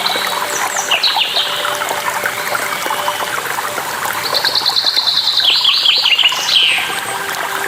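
Several songbirds calling over the steady rush of falling water. About halfway through, one bird gives a fast trill of high notes, followed by short down-slurred calls.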